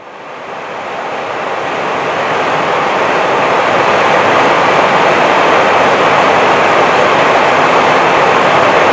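Steady rushing noise inside an Airbus A320 flight deck in flight, from airflow and engines, fading up over the first few seconds to a loud even level.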